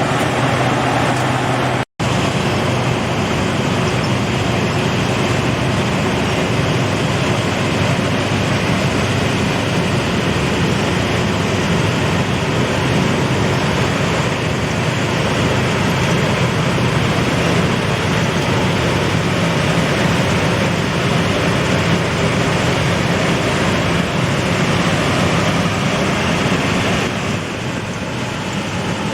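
Combine harvester running steadily, its engine and machinery making a loud, even noise. The sound cuts out for a split second about two seconds in, and it eases slightly near the end.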